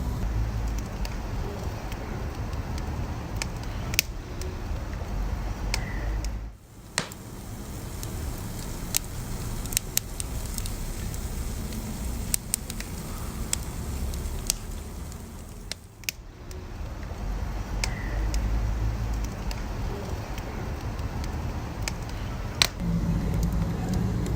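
Wood fire crackling, with scattered sharp pops and snaps over a steady low rumble of burning flames. The rumble drops away briefly twice.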